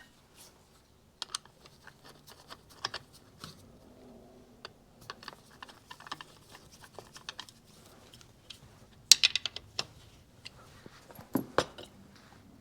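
Light, scattered metal clicks and taps of a screwdriver and screws as the clutch cover of a two-stroke motorcycle engine is screwed on by hand. There is a louder flurry of clicks about nine seconds in and another a couple of seconds later.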